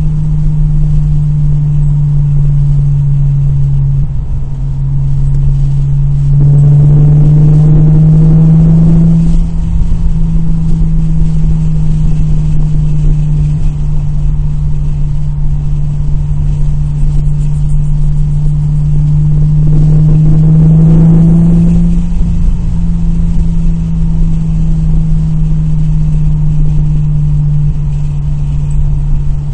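2002 Nissan Maxima's 3.5-litre VQ35DE V6 running under way with a steady drone. It speeds up briefly twice, rising slightly in pitch, about 6 seconds in and again about 20 seconds in.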